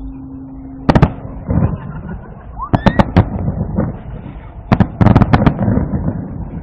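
Fireworks shells bursting in a string of sharp bangs: one about a second in, a quick cluster around three seconds, and a rapid volley near the five-second mark, with echoing rumble between them.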